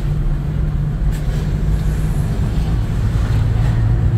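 The four-cylinder engine of a 1994 Toyota Great Corolla running as a steady low hum, freshly tuned with the engine shake gone. Its pitch drops slightly about halfway through.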